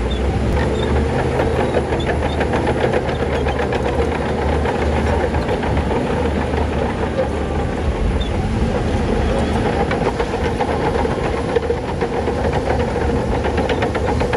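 Shantui crawler bulldozer's diesel engine running steadily under load, with a dense, rapid metallic clatter from its tracks or stone over it.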